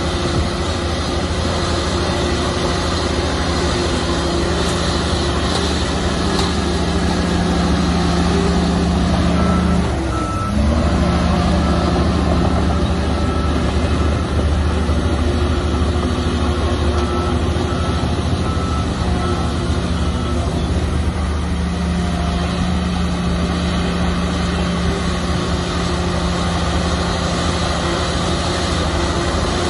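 Heavy diesel earthmoving machinery running steadily, its engine note dipping briefly about a third of the way in. A back-up alarm beeps in a regular rhythm for about ten seconds in the middle.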